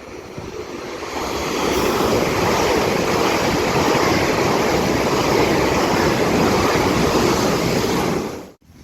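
A train passing close by at speed: a rushing roar of wheels and air with no clear engine note. It builds over about two seconds, holds steady, and cuts off suddenly near the end.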